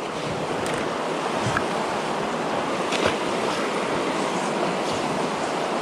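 Steady rushing wash of water around a kayak, with a couple of faint knocks about one and a half and three seconds in.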